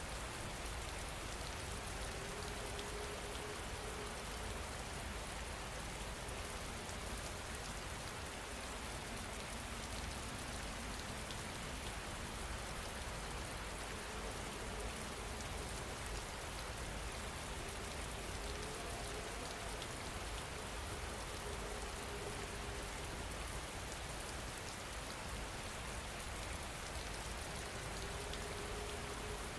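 Steady rain falling, an even hiss of raindrops with no change in strength.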